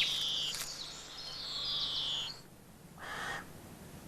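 Woodland ambience with a high, slightly falling bird trill that stops a little over two seconds in, followed by a brief soft noise about three seconds in.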